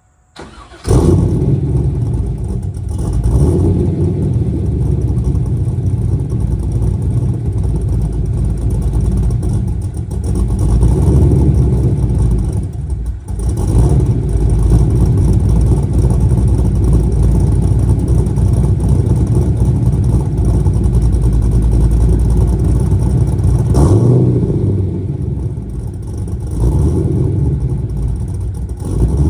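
Pontiac Trans Am WS6's 5.7-litre LS1 V8 cranks briefly and catches about a second in. It then runs loud with an uneven idle from a BTR Stage 3 camshaft, breathing through long-tube headers and catless true-dual exhaust, rising and falling a little as it settles.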